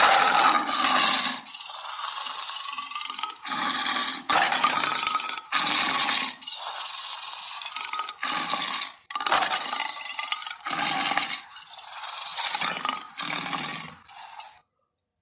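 Lion roar and growl sound effects: about a dozen short, loud, raspy bursts in quick succession with brief gaps between them.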